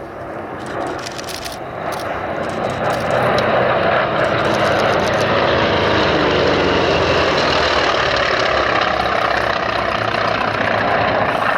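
Vought F4U Corsair warbirds running their Pratt & Whitney R-2800 radial piston engines on a display pass. The sound swells over the first few seconds, stays loud, and drops in pitch as the aircraft go by.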